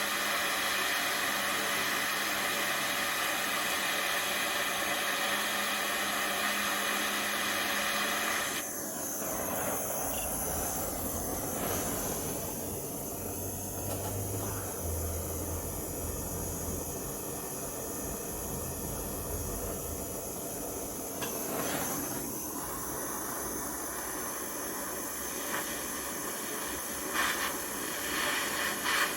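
Steady hiss and rush of a flame heating the steel steering rod, with no strikes. About nine seconds in the sound changes, losing much of its higher hiss and gaining a lower rumble.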